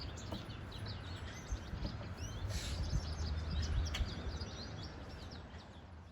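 Many small birds chirping in quick, short notes over a steady low rumble of wind on the microphone, the sound fading out near the end.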